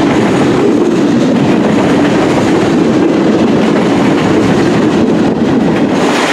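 Freight cars of a CN local mixed-freight train rolling past on the rails: a loud, steady rumble and rattle.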